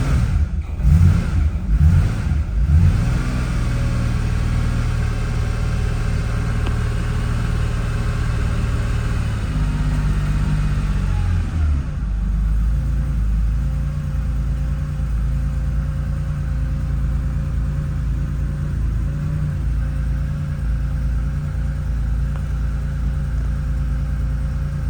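Porsche 911S flat-six engine running just after a cold start: a few quick throttle blips in the first three seconds, then a steady fast cold idle that drops to a lower idle about eleven seconds in.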